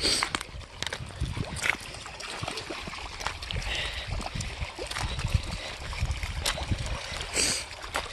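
Irregular crunching steps on a beach, with water splashing and trickling.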